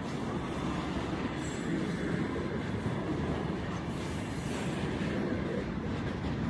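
Wagons of a long, heavy freight train rolling past, with a steady, dense rumble of wheels on the rails.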